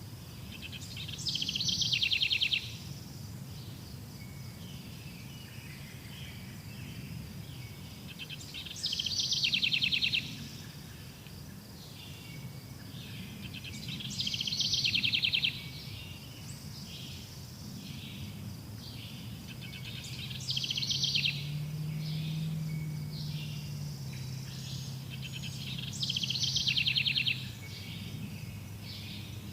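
A bird singing the same short, fast trilled song phrase five times, about every six seconds, over a steady low background rumble.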